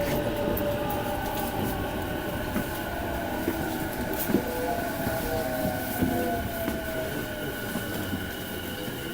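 E233 series 1000 electric train running and slowing, heard from inside the car: steady running and rail noise with a motor whine that slowly falls in pitch and a few light clicks from the wheels.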